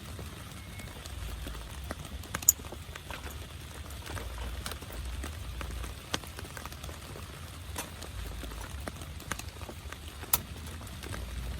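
Heavy rain falling on a tent: a steady hiss with scattered sharp hits of single drops on the fabric, the loudest about two and a half seconds in and again near the end, over a low rumble.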